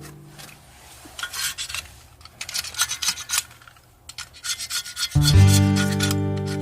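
Three short runs of quick rasping scrapes, from hand work on a woofer under repair. Loud background music with a heavy bass comes in about five seconds in.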